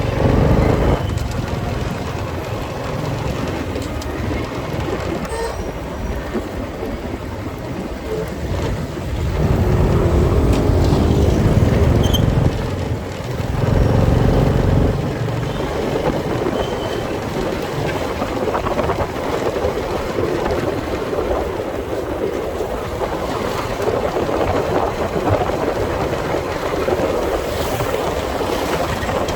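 Motorcycle riding through city streets: engine and road noise with rumble on the microphone. The low rumble swells louder twice, about a third of the way in and again about halfway.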